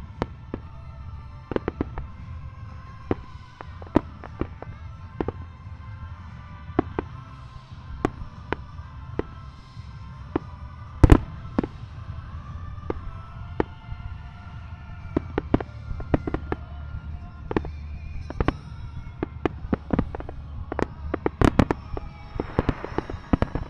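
Fireworks display: aerial shells bursting in an irregular series of sharp bangs over background music, with the loudest bang about halfway through and a quick cluster of bangs near the end.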